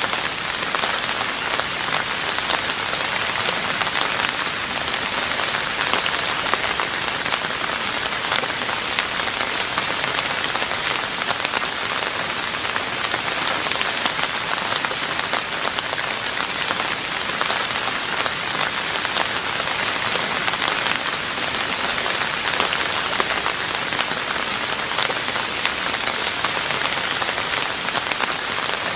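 Steady rain falling on a roof, a dense, even patter of many small drops.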